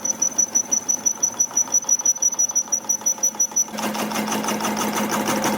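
A workshop machine running with a fast, even beat of several pulses a second over a high steady whine; a little past halfway it shifts to a louder, denser running sound with a low hum.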